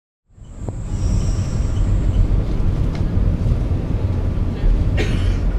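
Train running, a steady low rumble heard inside the carriage, cutting in abruptly. There is a faint high whine over it at first and a brief sharp noise about five seconds in.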